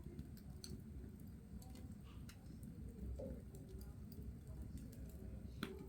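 Coal fire crackling: scattered faint pops and ticks over a low rumble, with a louder cluster of crackles near the end.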